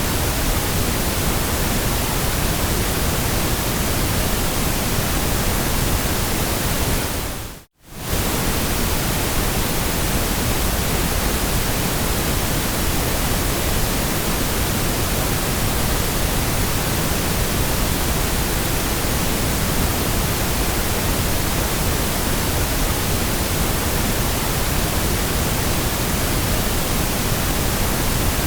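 Steady, even white-noise hiss spread across all pitches, with no tones or events. About eight seconds in it fades out to near silence for a split second and comes straight back.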